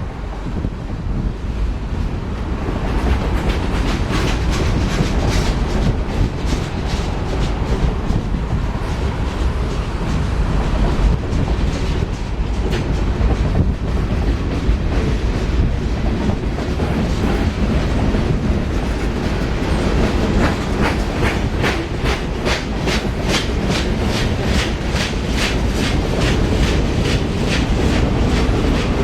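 A train rolling past close by, with a steady low rumble and wheels clicking rhythmically over rail joints. The clicks grow stronger and more regular in the second half.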